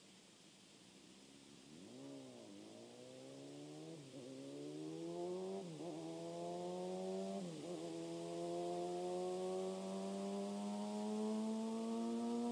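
Honda CBR250RR with a Yoshimura R55 slip-on exhaust accelerating hard through the gears: the note climbs in pitch, drops sharply at each upshift (about four shifts, near 2, 4, 6 and 7.5 seconds in), then pulls on in a long steady rise. It grows steadily louder as it approaches.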